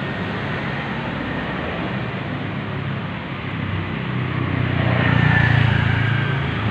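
Road traffic noise with engine hum, swelling as a vehicle passes about five seconds in.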